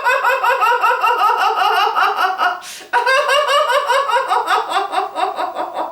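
A woman laughing heartily in two long runs of rapid, pulsing 'ha-ha' laughter, with a quick in-breath about three seconds in. It is deliberate laughter-yoga laughter, a laughter exercise.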